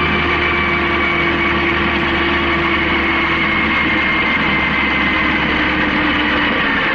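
Honda CB750K's air-cooled inline-four engine running under way, a steady drone whose pitch sinks slowly as the revs ease off.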